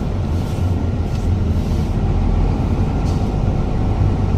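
Truck engine running with a steady low rumble as the truck backs up.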